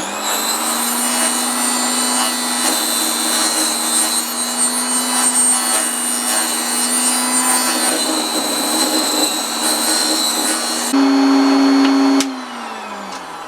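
Proxxon KS 230 mini table saw running steadily while its blade cuts shallow grooves around an oak dowel turned against it. About eleven seconds in, the saw runs free, louder, for about a second, then is switched off and its whine falls in pitch as it winds down.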